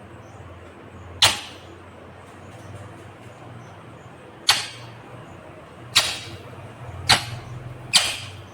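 Indian ringneck parrot giving five short, sharp, shrill calls at irregular intervals.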